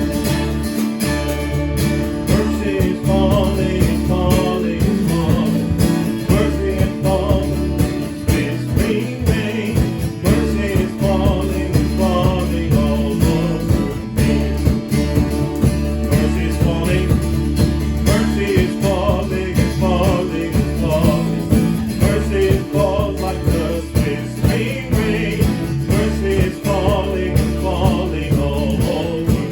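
A band playing a contemporary worship song, with acoustic guitar strumming and singing over it.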